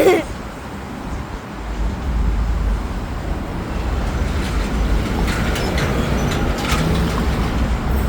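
City street traffic noise heard from a moving bicycle: a steady low rumble, with a few faint clicks between about five and seven seconds in.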